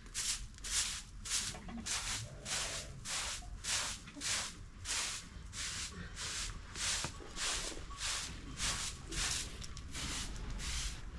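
A steady rhythm of short hissing swishes, about two a second, from some repeated hand-driven stroke.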